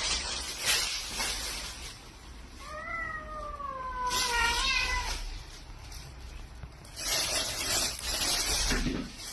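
A cat meowing once, a long drawn-out call about three seconds in that slides slowly downward in pitch, among stretches of rustling noise.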